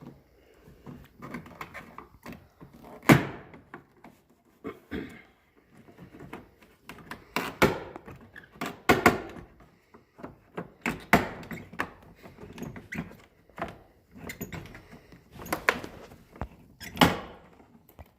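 Interior door panel of a 1999 GMC Sierra being pried loose: a pry bar knocking against the door and the panel's plastic clips popping out, a string of irregular thunks and snaps, the sharpest about three seconds in and again near the end.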